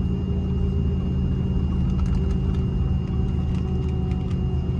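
Airbus A330 airliner running steadily: a low rumble with a constant high whine above it and faint scattered ticks.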